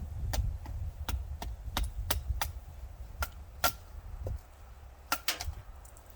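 Dry wood cracking in a series of about a dozen sharp snaps at uneven intervals, two close together about five seconds in, over a low rumble that stops about four seconds in.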